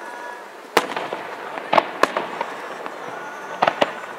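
Aerial fireworks shells bursting in a series of sharp bangs: one about a second in, two close together near the middle, and two more near the end.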